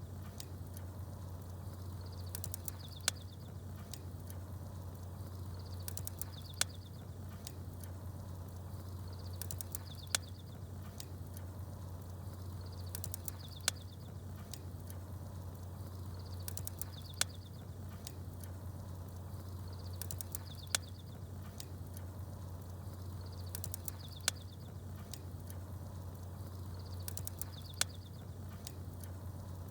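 Campfire crackling with small birds twittering. A short burst of high chirps and a sharp pop from the fire come back at even spacing about every three and a half seconds, over a steady low hum.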